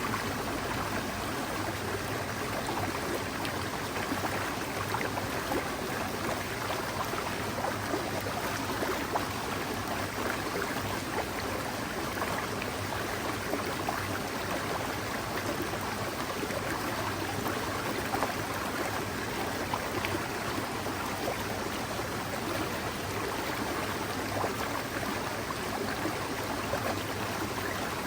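Mountain stream flowing with a steady, even babble of running water.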